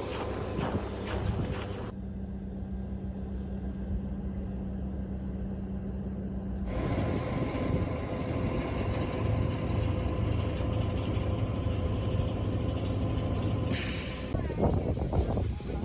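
Railway sounds from a Russian sleeper train: a steady low running hum, broken by abrupt cuts into several stretches, one of them holding a steady low tone. Near the end comes a short hiss of air, like an air brake releasing.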